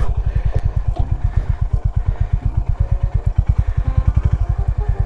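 Honda CB350 H'ness single-cylinder engine running at low revs, its exhaust beating evenly at about ten pulses a second.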